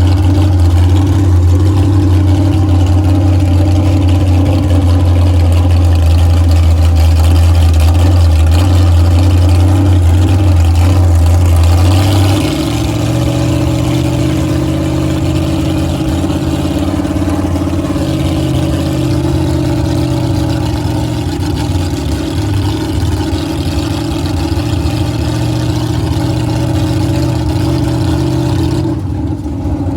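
Monster truck engine running steadily with a deep drone. About twelve seconds in, the engine note changes to a somewhat higher, layered tone and stays steady from there.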